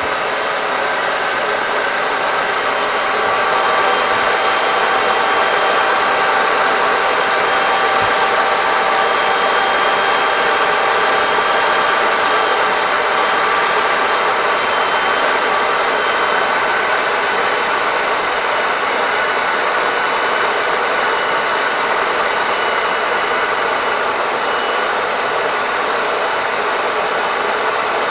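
Belt sander held in a jig as a thickness sander, running steadily with a high whine.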